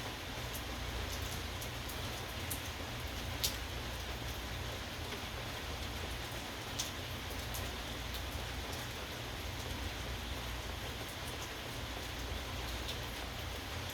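Steady rain falling, with scattered sharp drop hits, two louder ones about three and a half and seven seconds in, over a low steady rumble.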